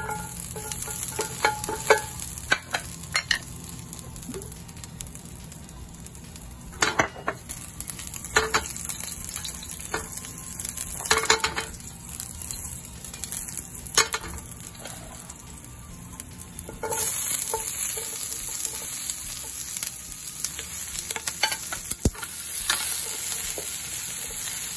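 Garlic slices sizzling in hot oil in a skillet, with scattered knocks and scrapes as the pan is stirred and tossed. About 17 s in, the sizzle grows louder and stays so as sliced bell and green peppers go into the pan and are stir-fried.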